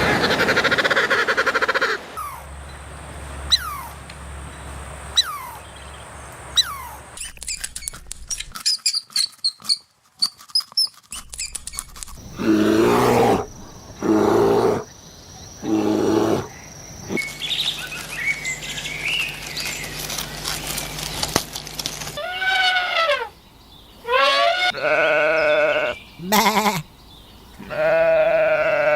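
Sheep-type bleating: several separate bleats in a row through the second half, each a short pitched call rising and falling. Earlier there are short chirps and clicks from other animal clips.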